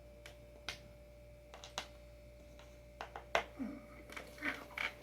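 Scattered light clicks and taps of small hardware being handled while a surfskate adapter is fitted to a skateboard, a few at first and coming more often in the last two seconds, over a faint steady hum.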